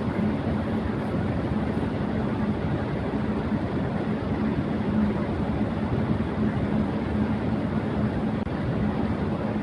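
Electric fan running at high speed: a steady rush of air with a low, constant motor hum underneath, broken only by a momentary dip in level about eight and a half seconds in.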